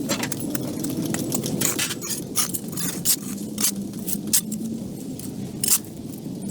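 A steady motor hum under irregular sharp clicks and clinks, several each second.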